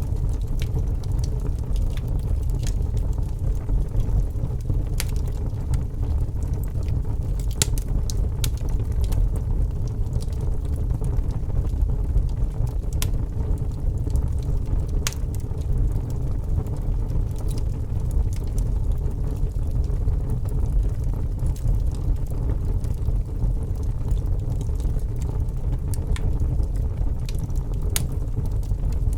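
Logs burning in a fireplace: a steady low rumble of the fire with scattered sharp crackles and pops at irregular moments.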